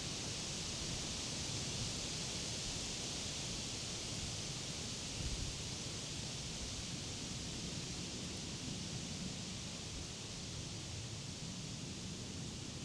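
Wind blowing steadily through leafy summer trees and grass: a continuous rustling hiss of leaves over a low rumble, with a slight gust about five seconds in.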